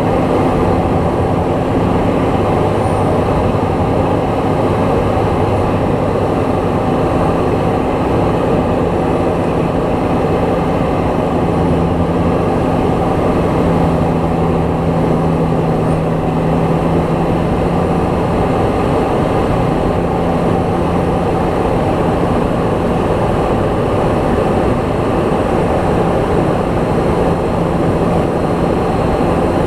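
Steady engine and propeller drone of a light aircraft in flight, heard from inside the cabin: a loud, constant roar with a few steady tones in it.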